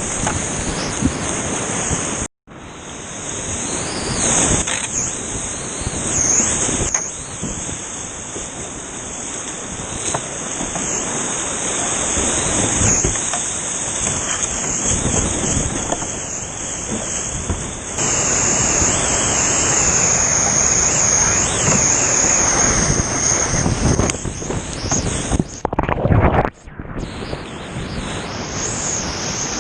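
Whitewater rapids rushing as a steady, loud, dense roar of water, broken by two short gaps, one about two seconds in and one near the end.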